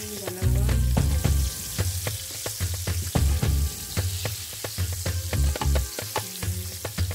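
Breaded chicken drumsticks sizzling and crackling in hot frying oil in a pan while they are turned over with a fork. Background music with a steady, pulsing bass plays under it.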